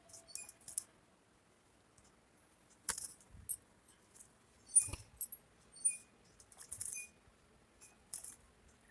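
Parrots bathing: faint, irregular short splashes and flutters, a dozen or so quick bursts scattered through, the loudest about three and five seconds in.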